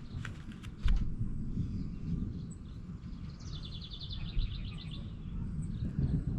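A songbird sings one rapid, evenly pulsed high trill lasting about a second and a half, a few seconds in, over a steady low rumble of outdoor noise. A few sharp clicks sound in the first second.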